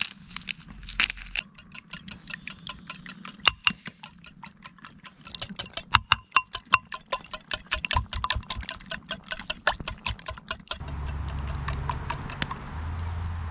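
Rapid rhythmic clicking, about five sharp clicks a second with a faint ringing note to each, like a utensil tapping against a dish; it stops suddenly near the end and a steady low hum takes over.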